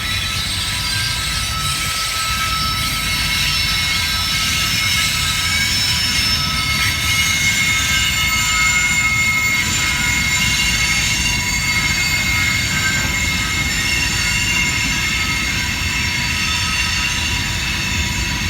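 Train cars rolling steadily past on the rails, with several high-pitched wheel squeals held as steady tones over the rumble of the wheels.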